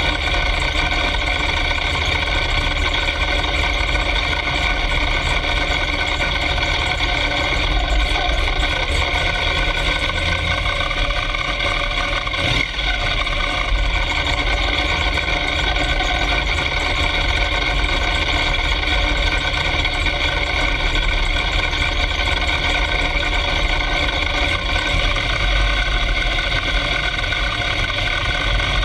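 Drag race car's engine idling steadily, heard from inside its stripped, roll-caged cockpit, with one brief dip in level about halfway through.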